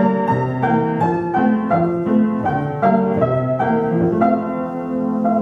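Piano playing an instrumental passage of a children's song, notes struck in a steady rhythm.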